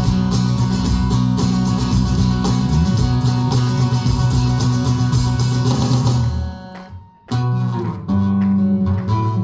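Guitar music, strummed and plucked chords. It fades out sharply about seven seconds in and starts up again straight after.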